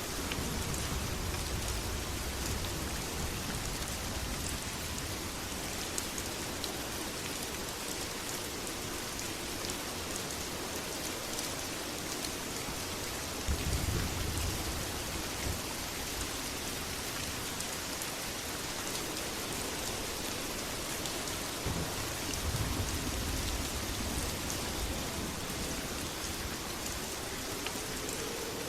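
Steady heavy rain, with low rolls of distant thunder rumbling in three times: at the start, about halfway through, and again a little later.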